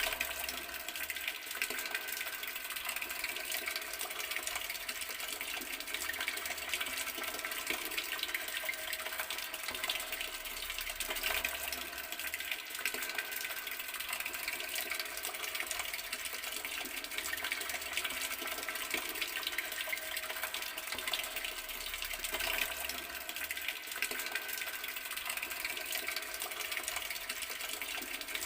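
Water running steadily from an outdoor garden tap, a continuous, unchanging flow.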